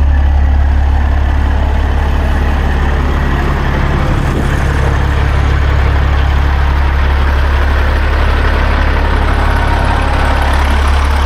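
Semi truck's diesel engine idling steadily, a constant low rumble with no change in speed.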